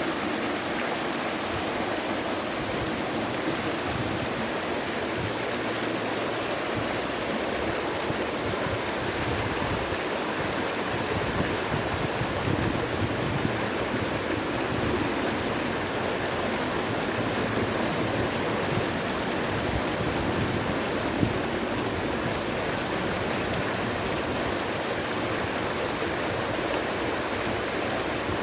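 Water flowing steadily in a continuous, even rush.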